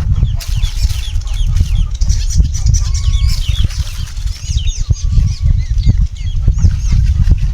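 Many small birds chirping rapidly in quick, high, curved notes, over a heavy low rumble that runs throughout.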